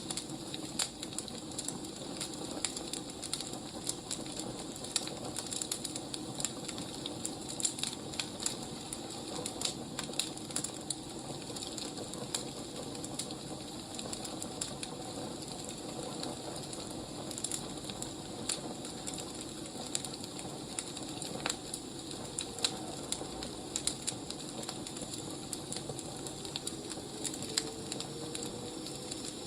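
Wood fire crackling, with irregular pops and snaps over a steady hiss.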